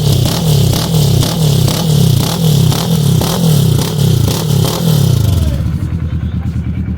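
Kawasaki ER-6n's parallel-twin engine through an FMF-style aftermarket muffler, revved in quick repeated throttle blips about twice a second, then settling to a lumpy idle near the end.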